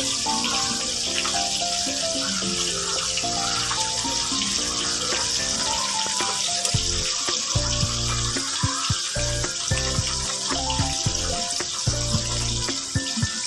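A tap running steadily into a sink, under background music whose melody plays throughout; a pulsing bass line comes in about seven seconds in.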